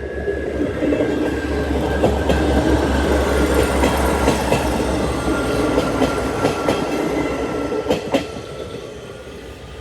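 A train passing slowly over a level crossing: a steady low rumble and running hum, with a few sharp clicks of wheels over rail joints. The sound builds in the first second and eases off near the end.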